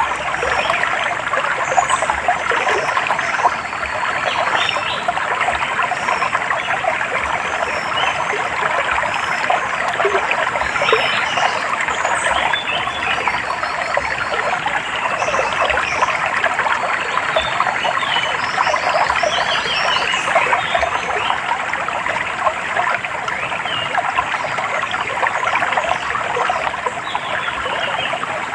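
Running water trickling steadily over a stream, with many short, high bird chirps scattered over it.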